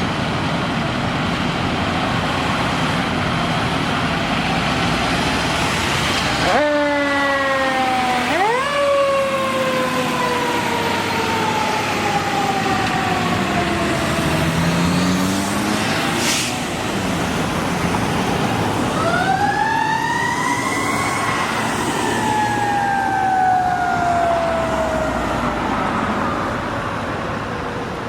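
Fire engine siren sounding while the apparatus responds, over a dense engine and road noise. The siren rises sharply and then slowly falls in pitch twice.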